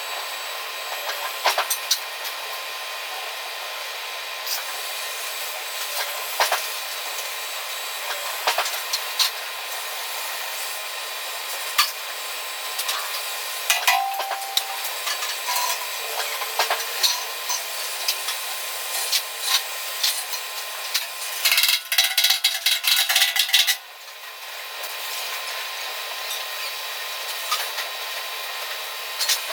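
Metal fabrication shop noise: a steady hiss with scattered sharp metal clicks and knocks, and a dense burst of rapid ticking for about two seconds near the end.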